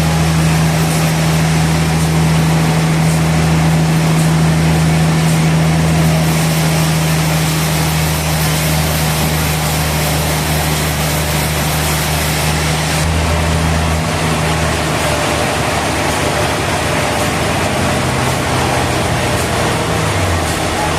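Sawmill machinery running steadily: a loud, low hum under a dense hiss. About two-thirds of the way through, the deepest part of the hum drops out, and near the end a lower tone slides down in pitch.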